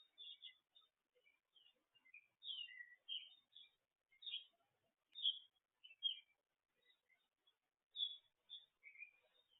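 Songbirds chirping and singing: short, high chirps and brief phrases at irregular intervals, with silence in between.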